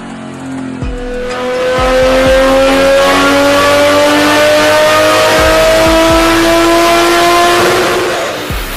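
Turbocharged car engine accelerating hard in one long pull, its pitch rising steadily for about six seconds before cutting off near the end.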